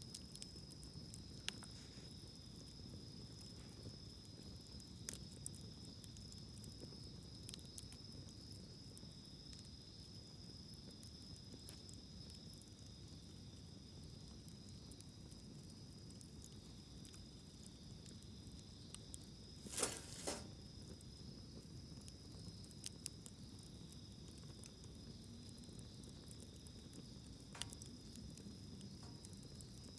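Campfire crackling faintly with scattered sharp pops, and a louder cluster of cracks about twenty seconds in. Underneath runs a steady high chirring of insects on two pitches.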